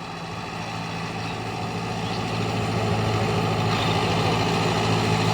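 Tractor diesel engine running at a steady speed, growing gradually louder.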